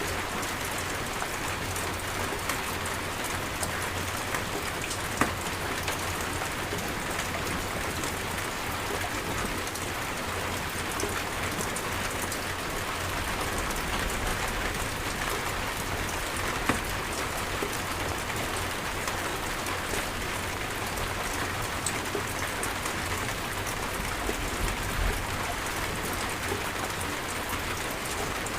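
Steady heavy rain falling and pattering on a surface, an even hiss of countless drops. Twice a single drop lands with a sharper, louder tap.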